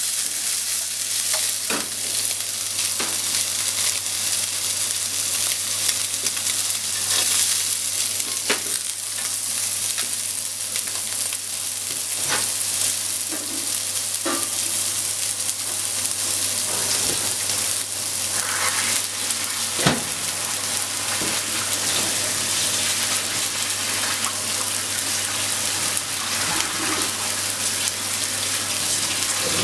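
Pieces of salmon sizzling steadily in a nonstick frying pan, with occasional sharp clicks of long wooden cooking chopsticks stirring them against the pan.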